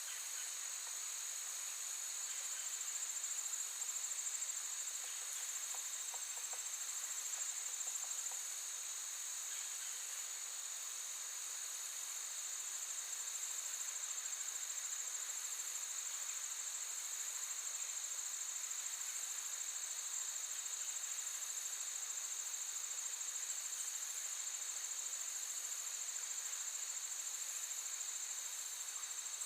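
A chorus of crickets trilling steadily, one continuous high-pitched ring with no pauses.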